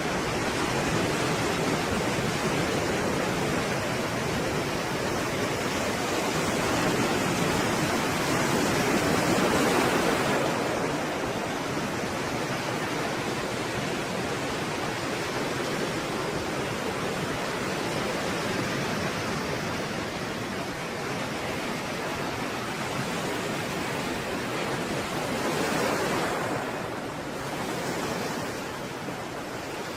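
Stormy sea waves, a continuous rush of surf that swells and eases slowly, loudest surges about a third of the way in and again near the end.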